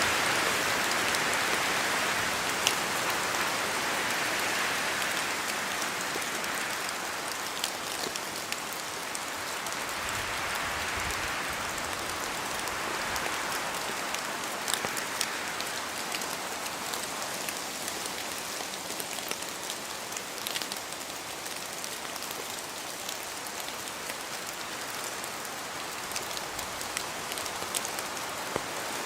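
Steady rain falling in a forest, a continuous hiss that swells and eases with gusts of wind, louder at the start. Scattered sharp ticks come from large drops falling from the trees.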